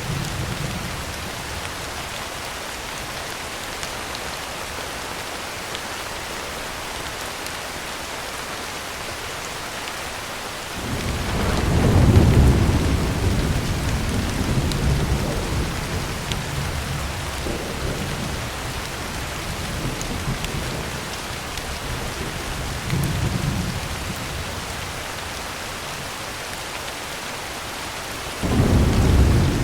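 Heavy rain drumming steadily on a tin roof, with a long roll of thunder that swells about a third of the way in and rumbles on in waves for over ten seconds, and a second thunder rumble breaking in sharply near the end.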